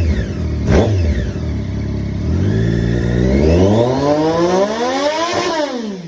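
Triumph 675R motorcycle's 675 cc inline three-cylinder engine, warm, revved through its exhaust: a quick throttle blip about a second in, then a long rev that climbs steadily for about three seconds before the throttle is snapped shut and the revs fall back toward idle near the end.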